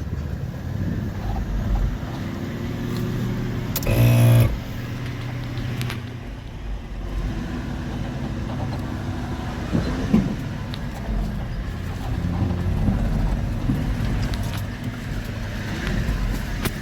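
Four-wheel-drive vehicle's engine running as it drives along a rough off-road track: a steady low rumble with scattered knocks. About four seconds in there is a short, loud tone with many overtones.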